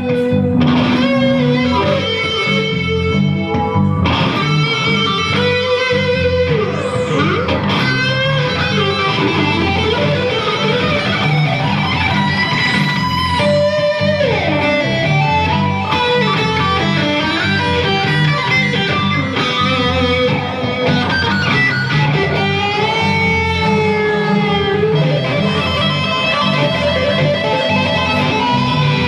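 Live band playing an instrumental: electric guitar lines with sliding notes over a steady repeating bass pattern.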